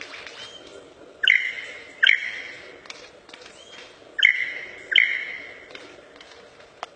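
A songbird calling: two pairs of loud whistled notes, each starting sharply with a quick upward slur into a held clear tone that fades away, with faint short rising chirps between them.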